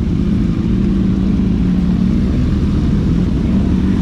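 A car engine running at a steady pitch with no revving: a loud, even low hum.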